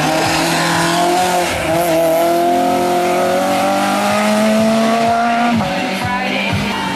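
Race car engine accelerating hard on a hill-climb course, its pitch climbing steadily for about five seconds before dropping sharply near the end.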